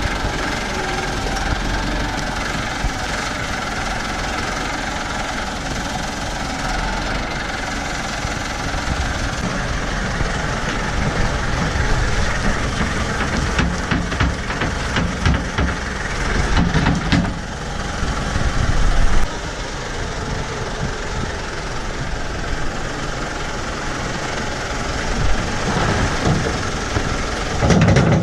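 Farm tractor engine running steadily while its front loader scoops and carries silage, with a cluster of knocks and rattles about halfway through.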